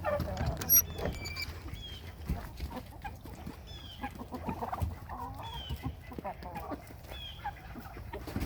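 Backyard chicken flock clucking and cheeping, with many short high calls that fall in pitch. A brief high-pitched squeak sounds less than a second in.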